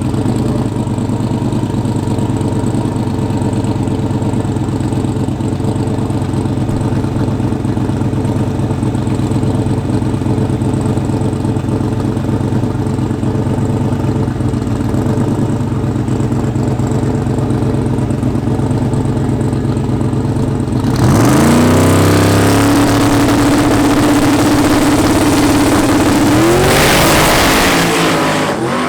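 Twin-turbo drag car engine idling steadily for about twenty seconds. At about 21 s it revs up sharply and holds a steady high rpm for several seconds. Near the end it rises again with a rushing hiss and then falls away.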